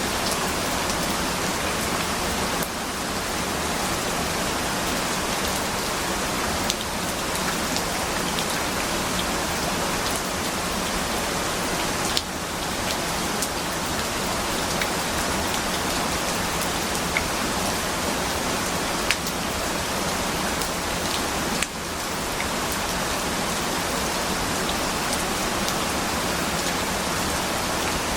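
Steady rain falling on a surface, an even hiss with scattered sharper drop ticks. The level dips briefly three times: a few seconds in, near the middle, and about three-quarters through.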